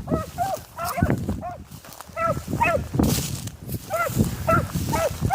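Rabbit hounds baying on the trail: short, arched yelps repeated a few times a second, broken by short gaps, with wind rumbling on the microphone.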